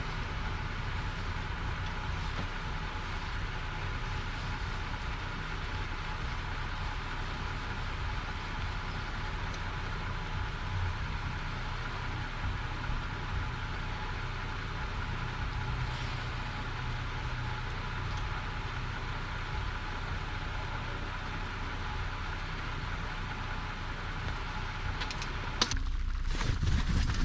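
Heavy rain falling steadily, with a low steady hum underneath. Near the end the hum drops away and a few sharp knocks sound.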